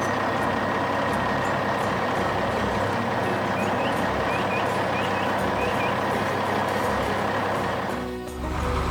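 Heavy machine engine running steadily with a continuous high whine over it, dipping briefly near the end before a deeper rumble comes in. A few faint bird chirps sound in the middle.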